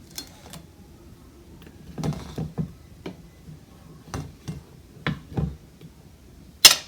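Scattered soft knocks and handling sounds as a toast sandwich is put together, with one sharp click near the end.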